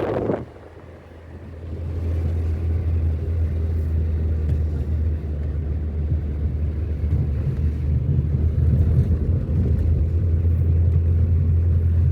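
Car driving: a steady low rumble of engine and road noise builds up in the first couple of seconds and then holds. Before it, a rush of wind noise cuts off about half a second in.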